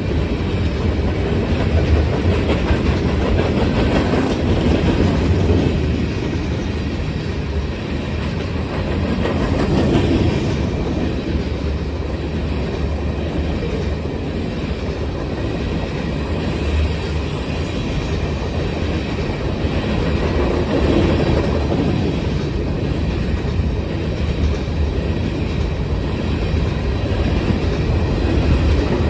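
Freight cars of a long manifest train rolling past, steel wheels clacking over the rail joints in a steady rumble that swells and eases every few seconds.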